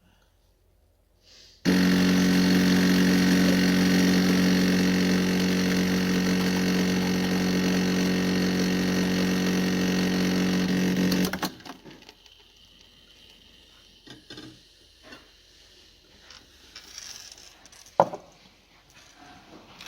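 Black+Decker BXCO1200E espresso machine's pump buzzing steadily for about ten seconds as it pushes water through, then cutting off suddenly. Faint clicks of handling follow, with one sharp click near the end.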